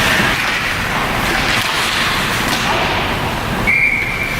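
Ice hockey game noise: sticks and puck knocking amid rink noise, then a short, steady whistle blast near the end, typical of a referee stopping play.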